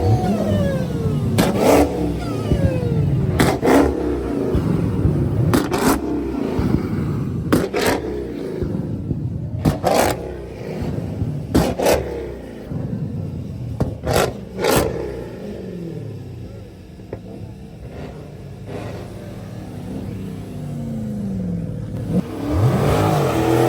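Car engine revving in short sharp blips about every two seconds, the revs falling away after each, over a steady idle rumble. The blips stop about 15 s in, and a longer rising rev comes near the end.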